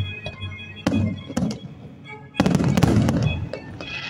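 Aerial fireworks shells bursting: a bang about a second in and another soon after, then a rapid cluster of bangs with crackling about two and a half seconds in. Music plays underneath throughout.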